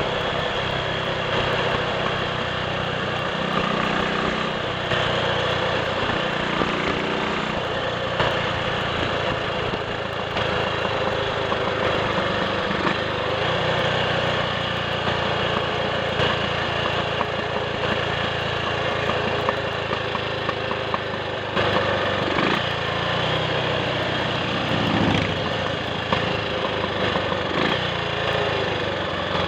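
Triumph Sports Cub's single-cylinder four-stroke engine running on the road, fitted with a new ignition coil to test for a misfire. The engine note shifts up and down a few times over a steady rushing noise.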